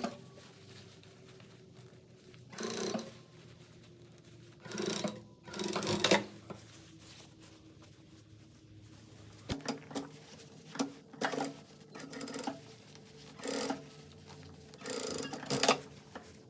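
Sewing machine stitching in short runs of about half a second to a second, stopping and starting repeatedly, with quick sharp ticks between runs, as fabric is mended in small sections.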